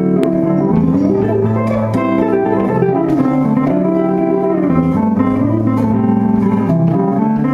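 Band music with no singing, guitar to the fore over steady low bass notes.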